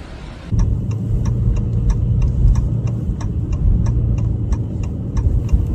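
A vehicle running with a steady low rumble that sets in about half a second in, over an even, rapid ticking of about five ticks a second.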